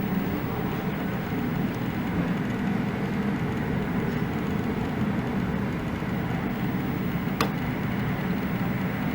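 Steady low rumble of aircraft engines, with a single sharp click about seven seconds in.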